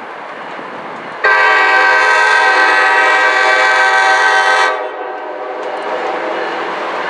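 A train horn sounds one long chord-like blast of about three and a half seconds, starting a second in and cutting off sharply, over the steady rumble of the passing train, which carries on after the horn stops.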